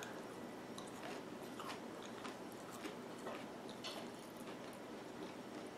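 A person biting and chewing a mouthful of broccoli, with faint, irregular crunching and wet mouth clicks.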